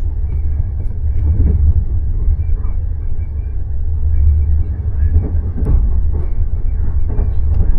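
Passenger train running: a steady low rumble, with scattered knocks and rattles from the carriage.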